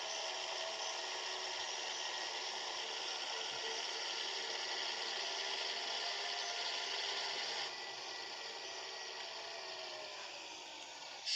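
Scania 111 truck's diesel engine running on the road, a steady drone with a strong hiss. About eight seconds in it drops quieter and the engine note sinks slowly over the last few seconds.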